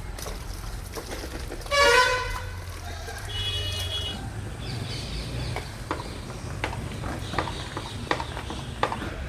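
A vehicle horn toots briefly about two seconds in, the loudest sound, and a higher steady tone follows a second or so later. Scattered sharp clicks and a low rumble run underneath.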